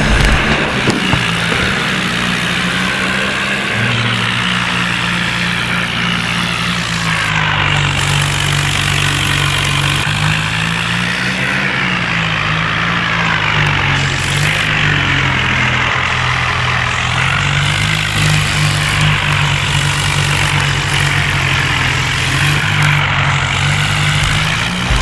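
John Deere tractor's diesel engine running hard, its pitch rising and falling several times.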